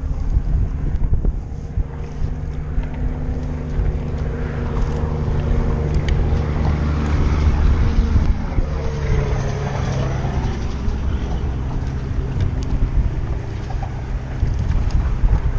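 Strong wind buffeting the microphone in a heavy low rumble, with a faint steady motor hum underneath whose pitch dips about ten seconds in.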